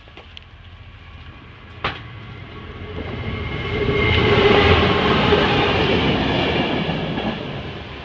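Freight train passing slowly over a level crossing, which is thought to be hauled by a Class 66 diesel locomotive; its wheels clatter on the rails. The sound builds, is loudest in the middle and fades toward the end, with a sharp click about two seconds in.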